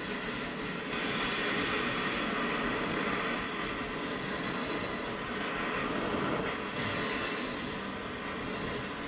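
Torch flame burning with a steady hiss, heating seized exhaust stud nuts to loosen them; the high hiss grows brighter about six seconds in.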